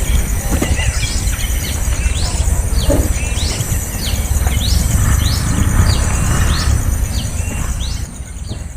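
Small bird giving short, sharp chirps over and over, about two a second, stopping shortly before the end. Under it runs a loud low rumble, and above it a steady high buzz.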